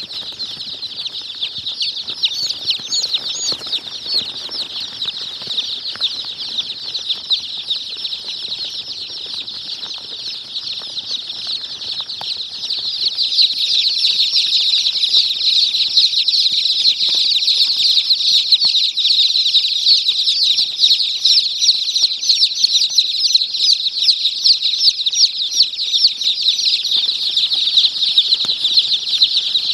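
A crowd of baby chicks peeping together: a dense, continuous chorus of short high chirps that gets louder a little before halfway through.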